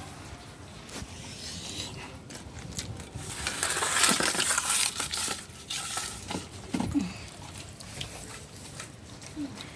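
A pet eating spilled food off the floor: scattered small clicks and clatter, with a louder rustling noise from about three and a half to five seconds in.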